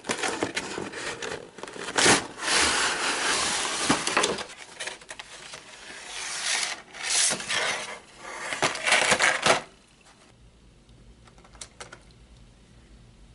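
A cardboard toy box and its plastic packaging being opened and handled: rustling, tearing and scraping with many sharp clicks and knocks. It stops about ten seconds in, leaving a faint low hum.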